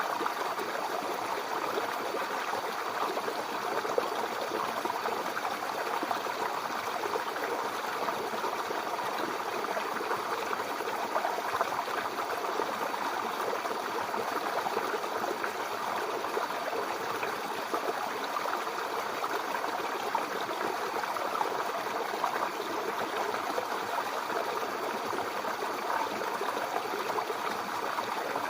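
A small brook babbling steadily over stones, an even rush of water with constant small trickles and splashes.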